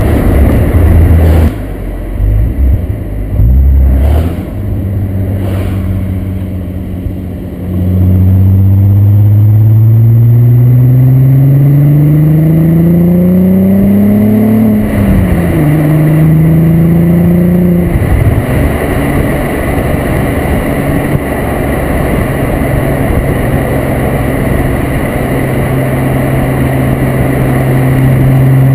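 Corrado's 24-valve VR6 engine through its Techtonics Tuning exhaust. It starts with choppy, uneven throttle. About a quarter of the way in it pulls hard with a steadily rising note, drops in pitch at a quick upshift about halfway, and pulls briefly in the next gear. It then eases off to a steady cruising drone.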